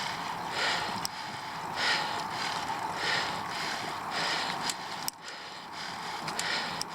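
Bicycle ridden up a steep climb: a regular swishing pulse about every two-thirds of a second, with a few sharp clicks from the bike.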